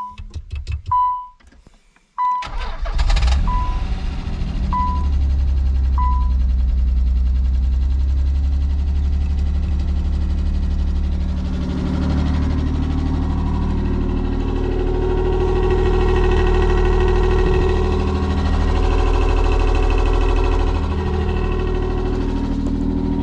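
Nissan 300ZX's V6 engine cranking briefly and starting about two seconds in, then idling steadily, its note rising a little for a few seconds past the middle. A warning chime beeps about once a second over the first few seconds, fading out.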